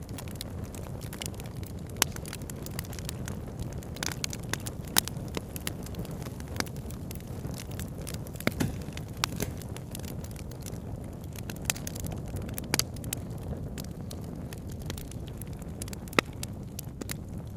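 Campfire crackling: sharp, irregular pops and snaps, a few much louder than the rest, over a steady low rushing of a river.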